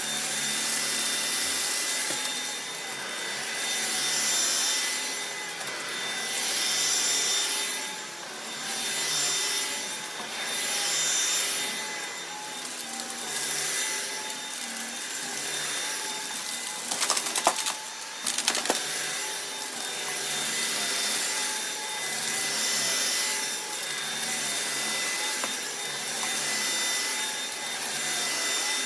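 Upright vacuum cleaner running with a steady motor whine, pushed back and forth so the sound swells and fades about every two seconds. Around two-thirds of the way through, a brief burst of sharp rattling as rock salt and grit are sucked up.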